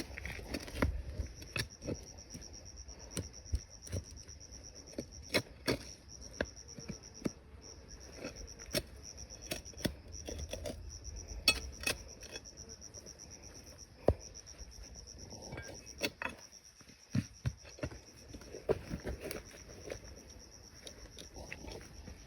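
Steady high-pitched insect chirring, with scattered sharp clicks and knocks throughout.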